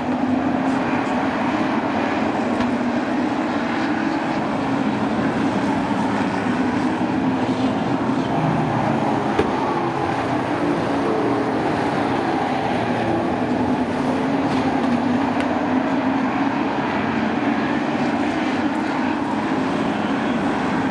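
A field of sport trucks racing on a short oval, their engines running hard at speed in a steady, continuous din.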